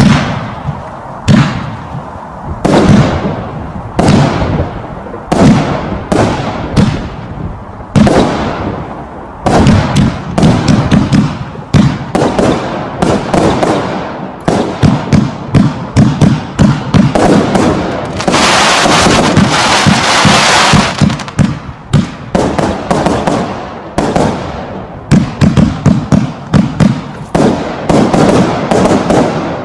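A 49-shot consumer firework cake firing shot after shot, each with a sharp launch and burst. At first the shots come about one every second and a half. From about ten seconds in they come in quick volleys, with a few seconds of dense, continuous noise about two-thirds of the way through.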